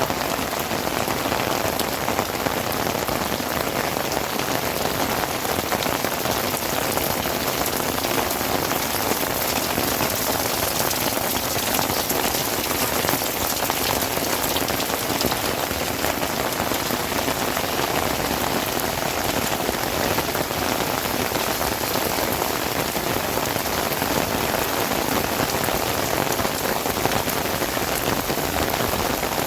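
Heavy rain falling steadily, an even unbroken hiss with no let-up.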